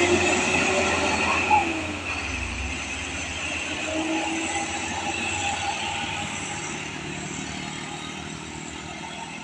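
Heavy truck's diesel engine running under load, its pitch dropping about two seconds in, then steadier and slowly fading. A single sharp tick sounds about one and a half seconds in.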